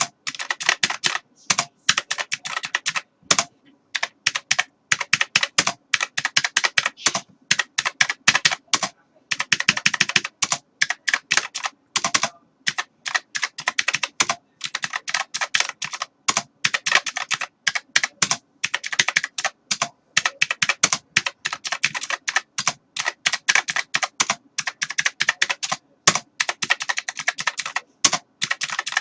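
Computer keyboard typing: fast runs of key clicks with short pauses between bursts.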